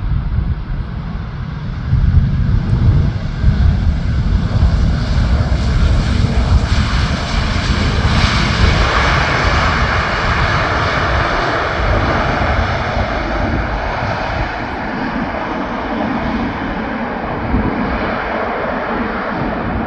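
Jet engines of an Airbus A320 on landing approach, a loud steady rush with a faint whine that swells to its loudest about eight to ten seconds in as the airliner passes, then slowly fades, over a low rumble.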